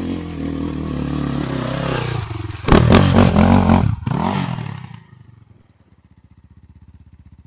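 Enduro motorcycle engine working up a steep hill climb: it runs steadily, then gets a sharp burst of throttle about three seconds in. By about five seconds it has died away to a faint, even low pulsing.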